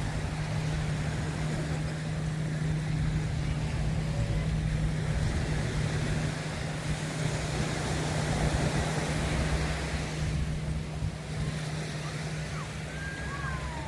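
Beachfront street ambience: a steady low engine hum over a broad wash of surf and street noise, with scattered distant voices.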